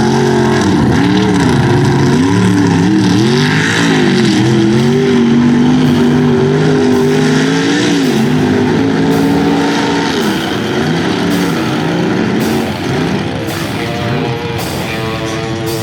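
Big-block engine of a mud-bog truck revving hard, its pitch climbing and dropping again and again. It eases off near the end as rock music comes in.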